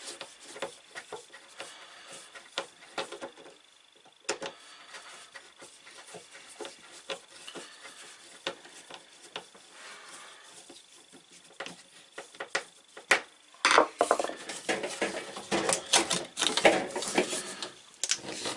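Hands working on appliance drain hoses and fittings: scattered clicks, knocks and rubbing, growing busier and louder for the last few seconds. A faint steady high whine runs underneath.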